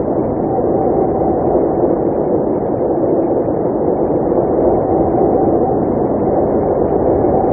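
Blizzard wind blowing steadily: an even, deep, muffled rush of noise with no gusts or breaks and no high hiss.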